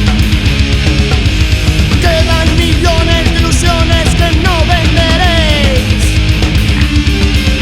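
Thrash-death metal band playing an instrumental passage, with no vocals: distorted guitars, bass and drums underneath a high melodic lead line of sliding, falling notes.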